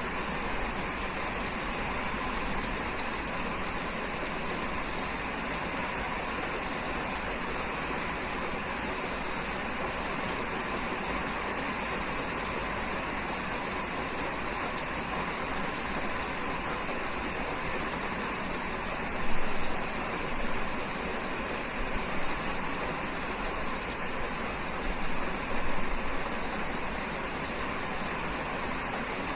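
Steady rainfall, an even hiss of rain falling, with a few brief louder swells in the second half.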